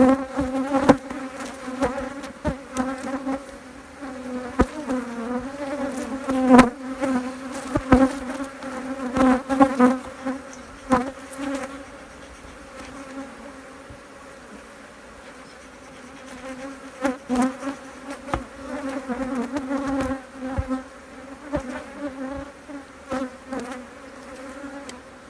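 A honeybee colony in an open hive buzzing with a steady low hum. Scattered sharp knocks and clicks come from frames being handled, and they fall away for a few seconds in the middle.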